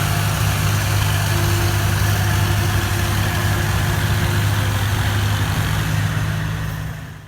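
Farmall 560 tractor engine idling steadily, fading out near the end.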